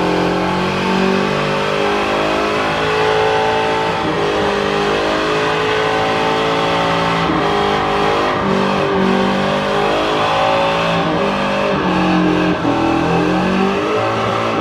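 Ford Mustang engines revving hard during burnouts: the engine note is held at high revs, then shifts up and down in steps.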